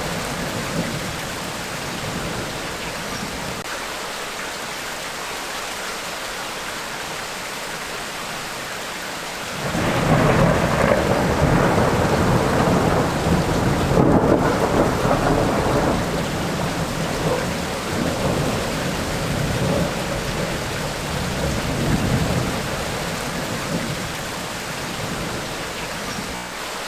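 Steady heavy rain of a tropical rainstorm, with thunder: a long roll breaks in suddenly about a third of the way through, rumbles loudly for several seconds, then dies away in smaller rolls near the end.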